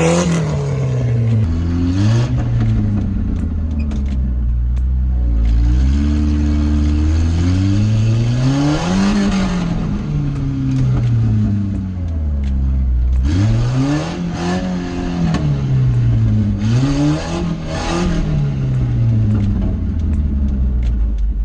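Car engine revving hard as the car is driven on a rough course. Its pitch climbs and drops again about five times as the throttle is worked, with scattered knocks and clatter.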